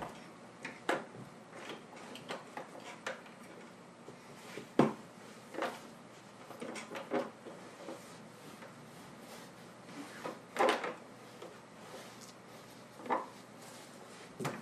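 Irregular short knocks and clicks, spaced unevenly, with the loudest about five seconds in and a cluster of them around ten and a half seconds.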